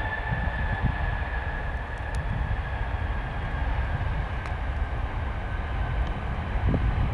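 Airliner engines on departure: a steady high whine slowly sinking in pitch over a low, gusty rumble, with wind buffeting the microphone.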